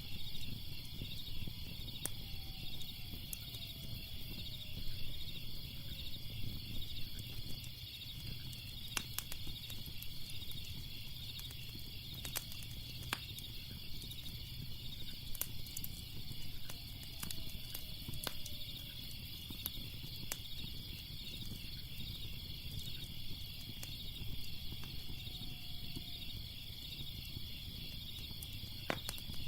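Crickets chirping in a steady, pulsing chorus over a crackling fire, whose sharp pops come irregularly.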